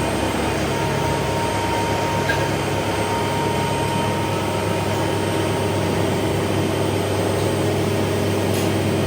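Workshop machinery running with a steady hum and a few held tones, more tones joining about halfway through.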